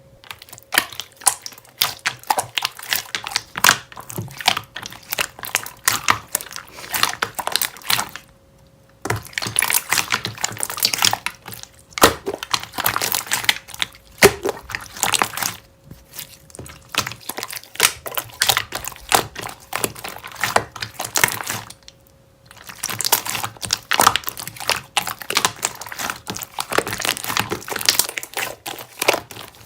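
Slime being squished and pressed by hand: a dense run of crackling, popping clicks that stops briefly twice.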